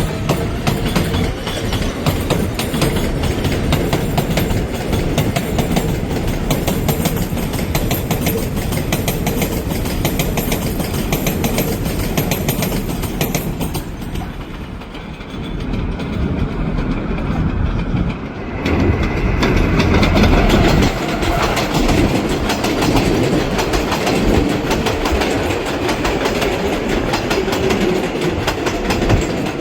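New York subway 7 trains of R188 cars running past on the elevated steel structure, their wheels clattering rapidly over the rail joints. The sound eases off briefly about halfway through, then a second train comes in louder.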